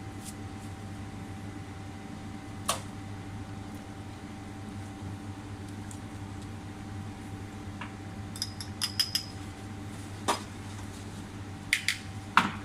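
Scattered clinks and taps of metal and glass coffee-making gear over a steady low hum: one tap about three seconds in, a quick run of ringing clinks near the middle, and a few more near the end.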